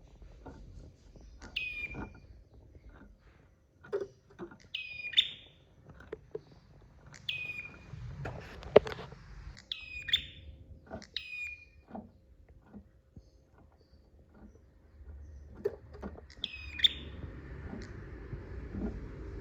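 Prinia (prenjak) giving a string of sharp chirping calls, about six of them one to two seconds apart, with many small clicks between. A low rumble comes up near the end.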